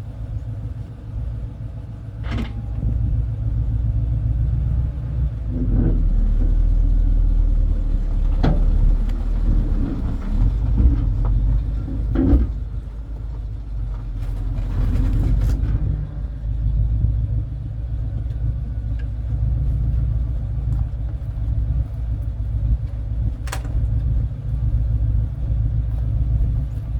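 The engine of a 1984 tow truck running with a steady low rumble while it moves a car across a yard. The rumble grows louder about six seconds in, and a few sharp clanks sound over it.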